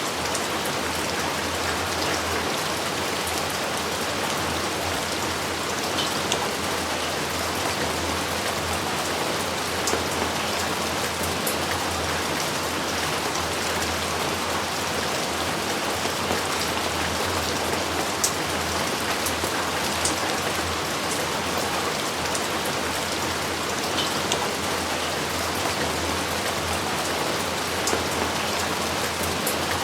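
Steady rain, an even hiss of drops falling on surfaces, with a few sharper single drop ticks scattered through it.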